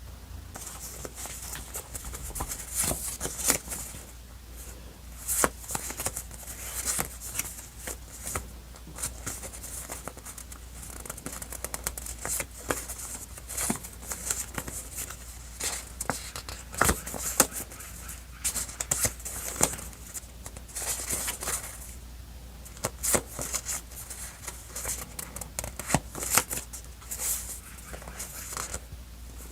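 Paper and stickers being handled for scrapbooking: a close, irregular run of crisp rustles, taps and clicks.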